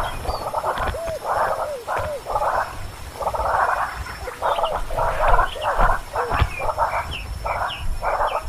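Baby birds calling: a rapid series of short raspy, hissing calls, roughly two a second, mixed with brief rising chirps.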